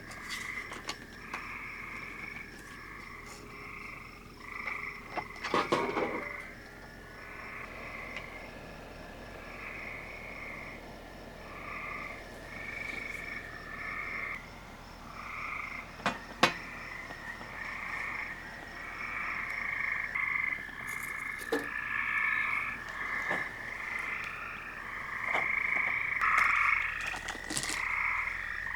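A chorus of frogs calling, short croaking calls repeating about once a second over a steady high-pitched trill, with a couple of sharp knocks.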